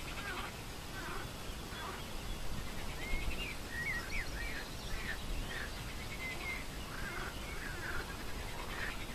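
Birds calling: a run of short chirps and whistled calls that rise and fall, busiest from about three seconds in, over a low steady rumble.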